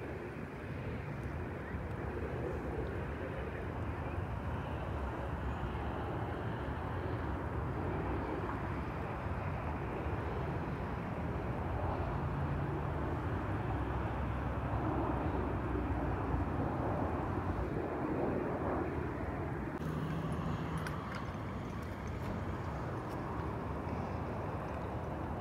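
Jet airliner's engines on arrival, a steady rushing roar that swells a little toward the middle and eases slightly later.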